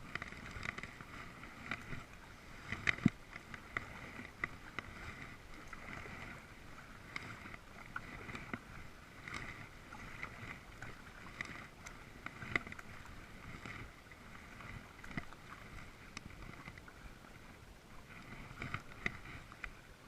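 Kayak paddle dipping into the water, with irregular small splashes and drips and a steady light wash of water.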